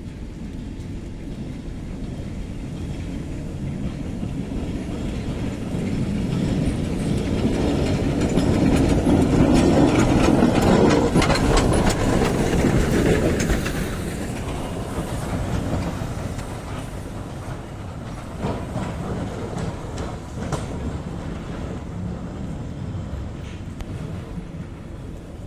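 Train running on the rails with wheels clacking over the rail joints, growing louder to a peak about halfway through and then fading as it passes.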